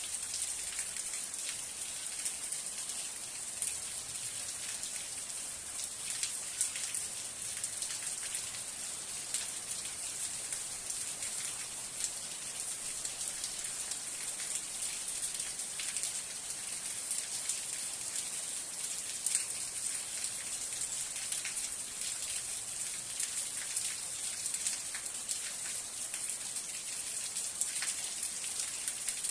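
Steady rain: a continuous high hiss sprinkled with many small, sharp drop ticks, even in level throughout.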